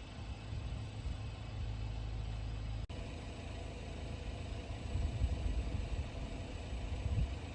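Car engine and road noise, a low steady rumble that drops out for an instant about three seconds in.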